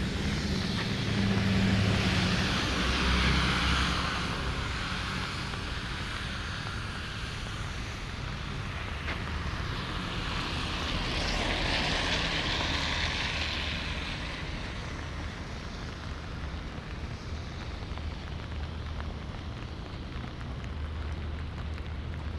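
Two vehicles passing one after the other on a rain-wet road: tyre hiss swells up and fades, the first about a second in, the second near the middle, with a light rain noise underneath.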